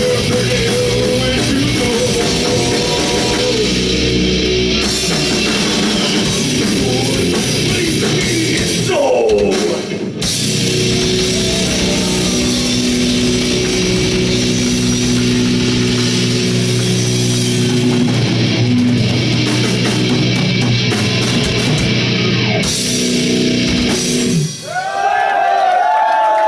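A live heavy rock band playing loud: distorted guitars, bass and drums. The music stops about two seconds before the end and gives way to wavering high sounds.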